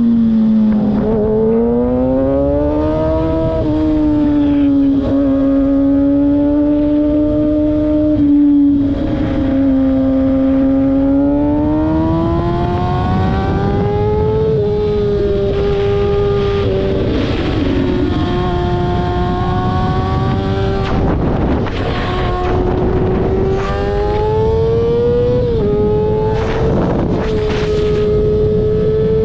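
A car engine held at high revs without a break, its pitch drifting slowly up and down, over a dense rumbling noise.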